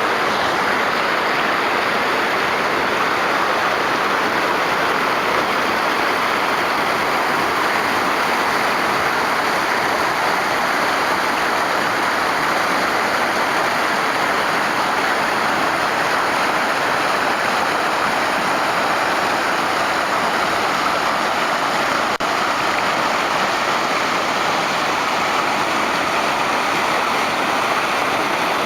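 Waterfall: water falling and splashing with a steady rushing, unchanging throughout.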